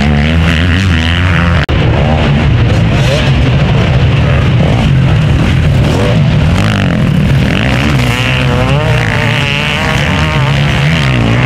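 Several motocross bike engines racing at high revs, their pitches rising and falling as riders open and close the throttle and shift, with a momentary break about two seconds in.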